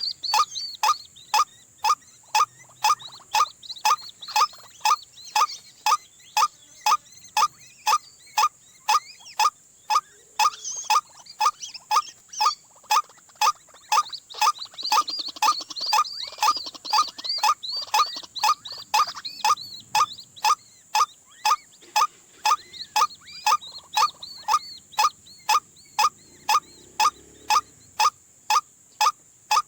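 White-breasted waterhen's repetitive croaking call, repeated very evenly about twice a second, typical of the call used to lure the birds in. A steady high hiss and fainter chirping run behind it.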